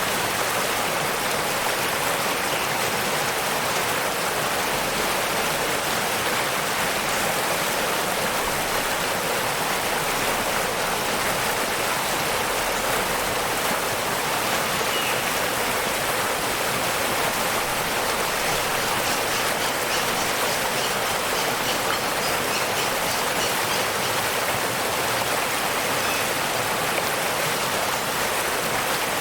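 Waterfall rushing steadily: an even hiss of falling water with little deep rumble.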